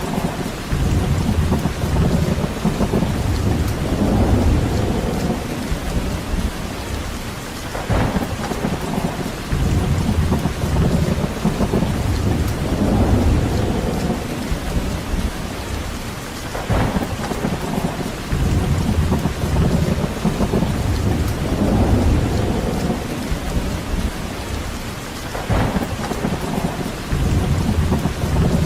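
Steady heavy rain with a deep rumble underneath that swells and fades in regular waves about every eight to nine seconds, each wave marked by a brief sharper crackle.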